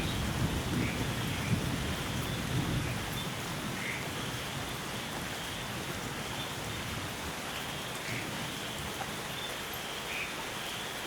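Steady heavy rain hissing, with a low rumble of thunder dying away over the first few seconds.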